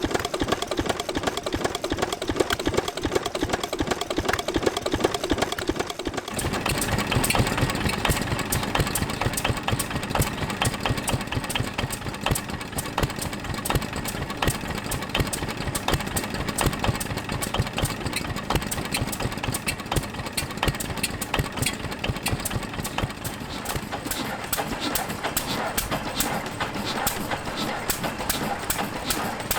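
Old single-cylinder stationary engines running at a slow idle with a steady, even beat of firing strokes. About six seconds in, the sound switches to a different engine with a fuller, louder beat.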